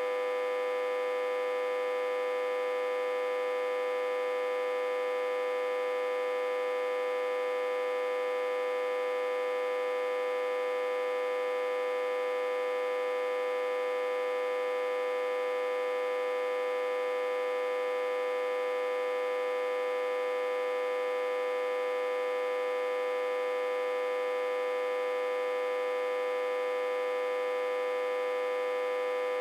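Autotransformer humming, a steady pitched hum strongest near 500 Hz with many overtones. It is driven at about 60–80 V and reverse-connected to a step-down transformer.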